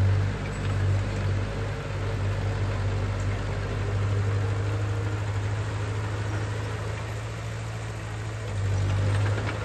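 A heavy construction machine's diesel engine running steadily with a deep hum, swelling louder briefly at the start and again near the end.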